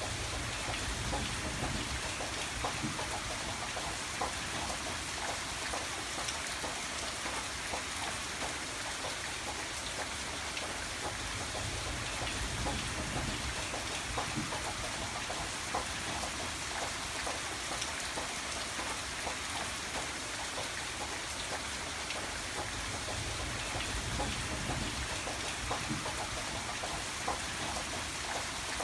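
Steady rain falling: a constant, even hiss with scattered small drop ticks.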